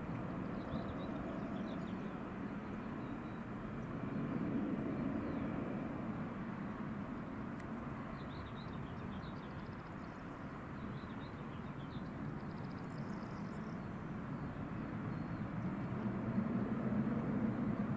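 A steady low rumble that swells a little about four seconds in and again near the end, with small birds chirping intermittently over it.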